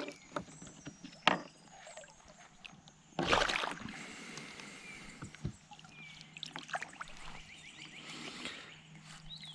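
Water sloshing and splashing around a kayak, with a few knocks and one louder splash about three seconds in.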